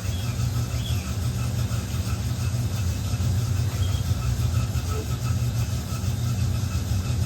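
Electrolux Turbo Limpeza LM08A top-loading washing machine running with a towel load: a steady low motor hum, with faint short squeaks now and then.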